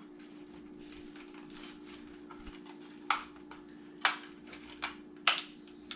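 Sharp plastic clicks and taps from working loose the bottom clip that holds a dishwasher's control board, four of them in the second half, over a steady low hum.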